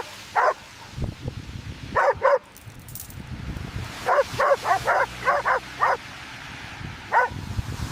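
A dog barking in short, sharp barks: one, then two together, then a quick run of about seven, and one more near the end, over a low rumbling background.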